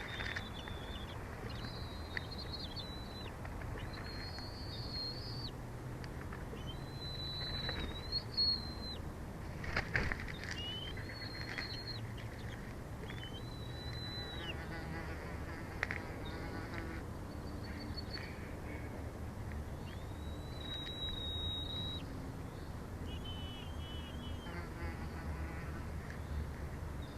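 A bird calling over and over: about ten high, drawn-out notes, each roughly a second long, with low wind noise on the microphone throughout.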